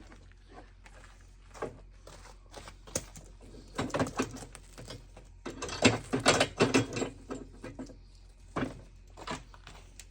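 Chainsaw chain spun around its freshly cleaned bar by blasts from an air compressor nozzle, the links clattering and ratcheting in bursts, loudest about six to seven seconds in. It spins freely, which shows the bar groove is clear of packed sawdust and oil.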